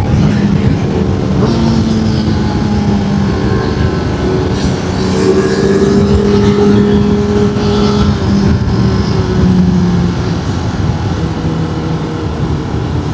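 Honda CB1000R's inline-four engine running steadily while riding, with wind rush over it. The engine pitch drops a little about ten seconds in.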